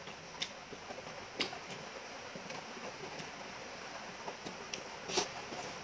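Close-miked chewing of beef curry and rice, with wet mouth smacks and clicks every second or so, the loudest about five seconds in, over a steady hiss.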